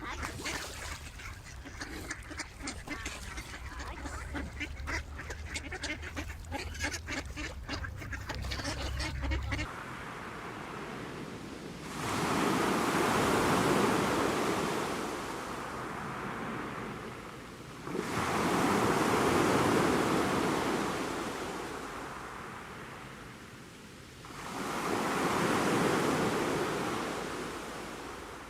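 A flock of ducks quacking rapidly over a steady low rumble, cut off about ten seconds in. Then ocean waves breaking, three swells that rise and fade about six seconds apart.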